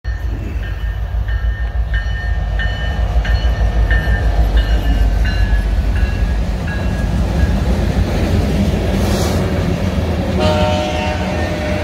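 Diesel freight train led by EMD SD70M-2 and GE ES44DC locomotives rumbling past close by, with a locomotive bell striking about one and a half times a second and dropping a little in pitch as the locomotives go by. The bell stops about seven seconds in, leaving the rumble of the rolling freight cars, and a steady ringing tone comes in near the end.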